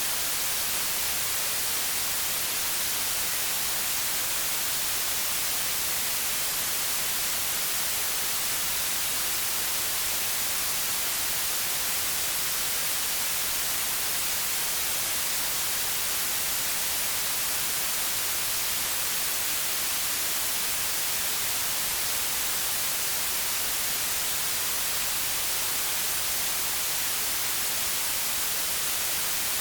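Steady white noise: an even, unchanging hiss that sounds brightest in the treble.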